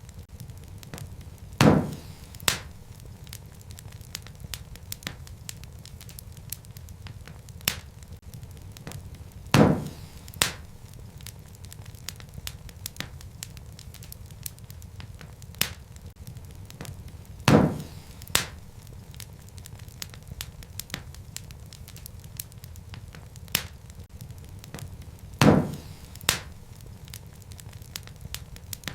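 Wood fire crackling in a fireplace: a steady low rumble of flames under many small ticks. Four loud, sharp pops come about eight seconds apart, each followed by a smaller pop about a second later.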